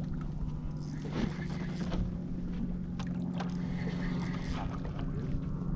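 A boat motor running steadily with an even low hum, with a few faint clicks and knocks over it.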